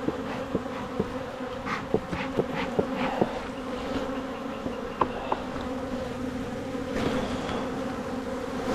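Honeybees buzzing in a steady drone around an open hive. The bees are agitated and defensive at being disturbed. Scattered sharp clicks come through the first half.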